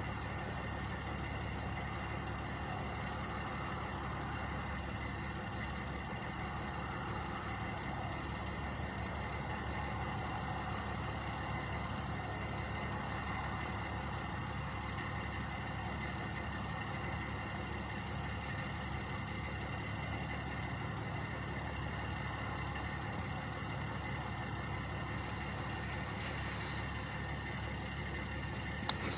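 Truck engines idling steadily, a continuous even drone. A brief hiss comes near the end.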